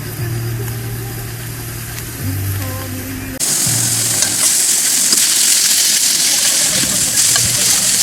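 Music with sustained low bass notes, cut off suddenly about three and a half seconds in by a loud, even sizzling hiss.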